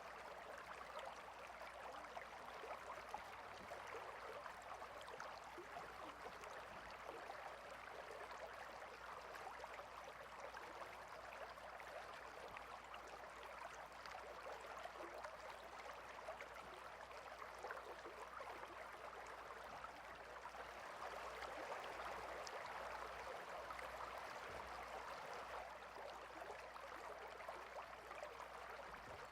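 Stream water flowing steadily, a faint continuous wash of water sound that swells a little about two-thirds of the way through.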